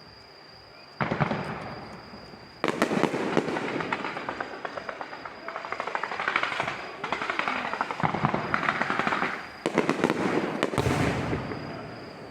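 Fireworks display: a sudden bang about a second in, then a long stretch of dense crackling and popping shells, another loud bang near the ten-second mark, then the sound fades near the end.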